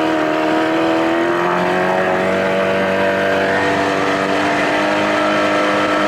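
2000 Johnson 25 hp two-stroke outboard motor running under way, a steady drone whose pitch creeps slightly upward as the boat gathers speed.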